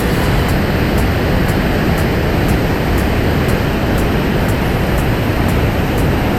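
Waterfall in full flood after heavy rain: a loud, steady rush of falling water and spray.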